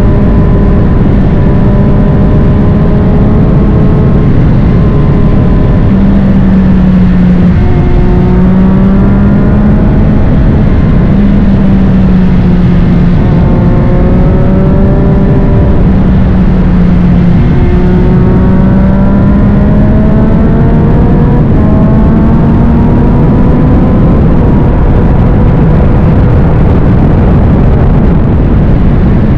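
Triumph Street Triple 765 RS three-cylinder engine running hard through a Spark full exhaust. The engine note climbs and drops back several times, as when the bike pulls through the gears, over a dense, steady rumble.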